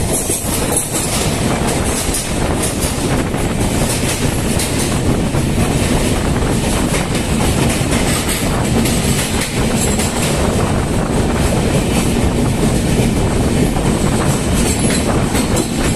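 Passenger train running at speed: a loud, steady clatter and rumble of wheels on the rails. It carries on as the train runs into a rock tunnel.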